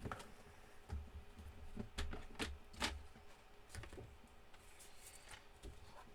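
Irregular light clicks and taps of card stock and crafting tools handled on a desk, with a few sharper knocks.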